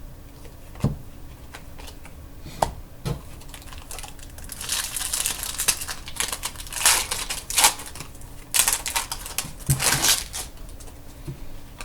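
Trading cards being handled: a few light taps, then a run of sliding, rustling scrapes as chromium cards are flipped and slid against one another.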